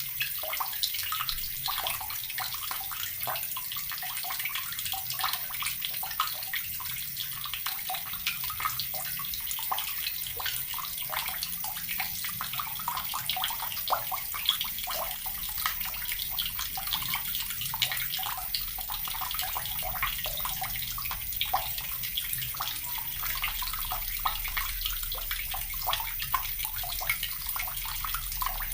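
Water running steadily from a tap and splashing, a continuous hiss dotted with small splashes and drips.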